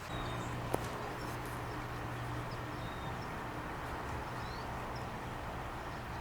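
Outdoor ambience: a steady low hum, like a distant motor, with faint, brief bird chirps and a single sharp click about a second in.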